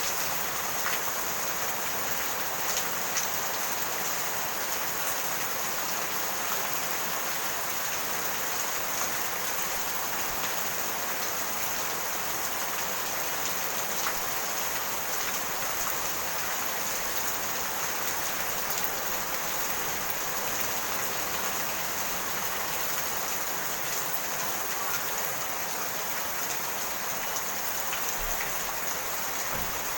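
Steady rainfall, an even hiss of rain with scattered faint drop ticks.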